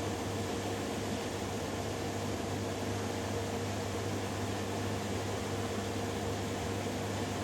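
Two washing machines, a Hoover Dynamic Next and a Beko Pro AquaTech, running their spin cycles together: a steady, even mechanical hum with a low drone and a fainter higher tone.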